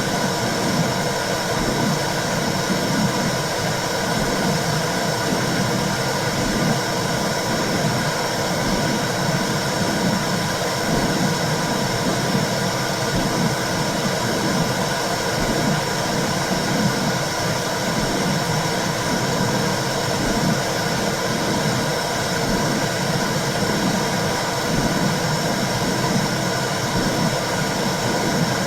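Womb sound for soothing a baby: a steady whooshing noise with a regular low pulse beating through it.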